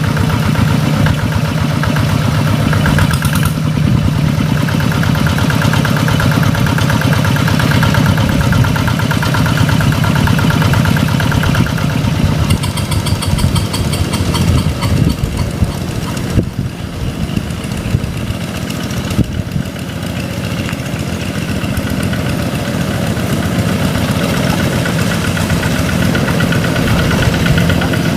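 Large farm tractor's diesel engine running steadily, its level dipping briefly about two-thirds of the way through before picking up again.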